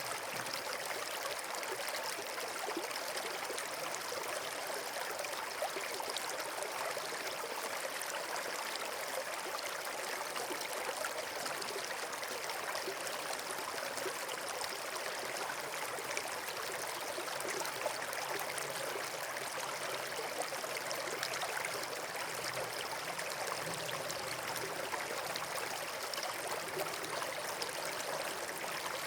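Steady rushing of flowing water, like a stream or small cascade, holding an even level throughout.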